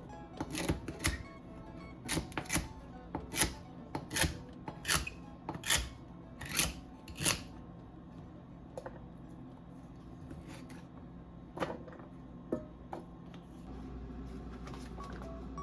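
Knife chopping on a cutting board, steady strokes a little more than once a second for about seven seconds, then a few scattered knocks.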